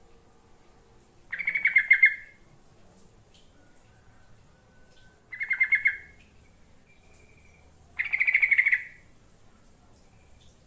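Yellow-vented bulbul (trucukan) singing: three short bursts of rapid chattering notes, a few seconds apart.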